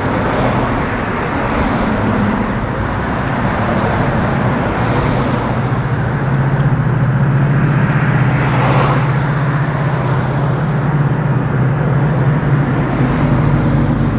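Train passing close by: a loud, steady rumble with a low engine drone that grows stronger about halfway through.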